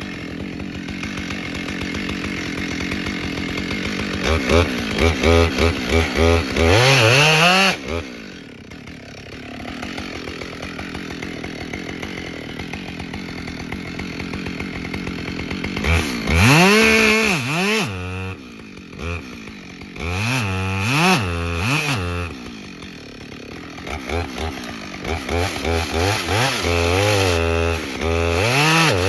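Two-stroke chainsaw idling, with its throttle opened up several times, the pitch rising fast to full revs and dropping back to idle between.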